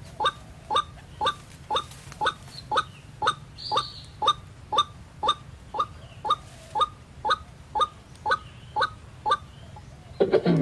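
White-breasted waterhen calls: a short, clipped, rising note repeated steadily about twice a second. Near the end there is one louder, lower call that falls in pitch.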